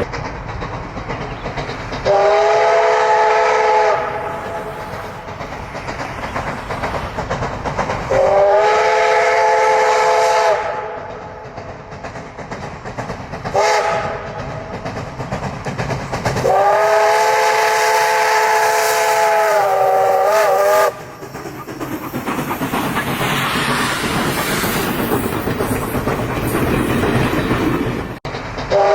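Steam locomotive's chime whistle sounding several tones at once in four blasts: two of about two seconds, a short toot, then a long blast of over four seconds. Between the blasts the train's hiss and running noise carry on.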